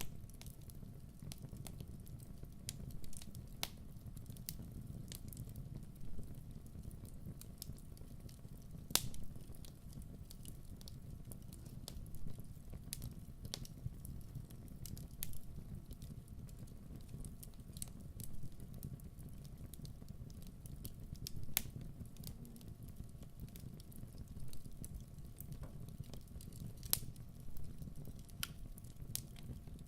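Wood fire burning with a steady low rumble and scattered crackles and pops at irregular intervals, a few louder snaps standing out.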